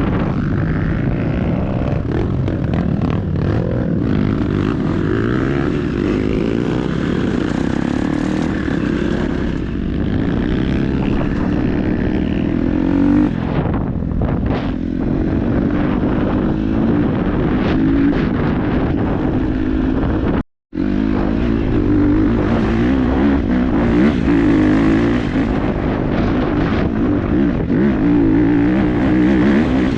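KTM 250 dirt bike engine running on a trail ride, the throttle opening and closing so the pitch keeps rising and falling. The sound cuts out for a split second about two thirds of the way through.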